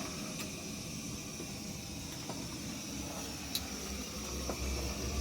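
Steady sizzling hiss of food frying in a pan, with a few faint clicks.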